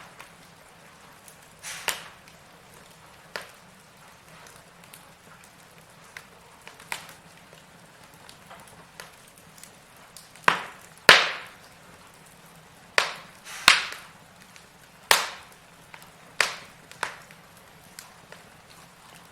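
Firewood burning, crackling with sharp pops at irregular intervals, the loudest ones bunched about halfway through, over a faint steady low hum.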